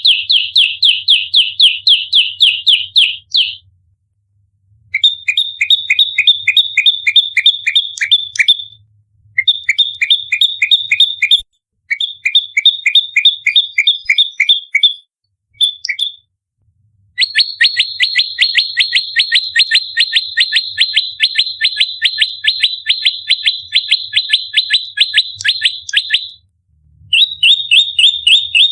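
Prenjak lumut calling in its rapid-fire 'fighting' song: fast, dense runs of sharp high notes, about eight a second, in bursts of a few seconds up to about nine seconds, broken by short pauses.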